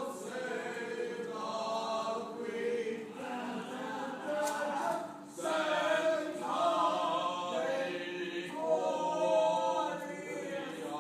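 Choir singing in long held chords, with short breaks between phrases.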